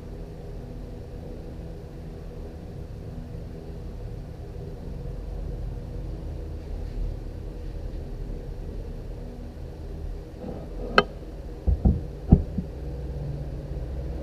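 An electric motor running with a steady hum, and a few sharp knocks in quick succession near the end.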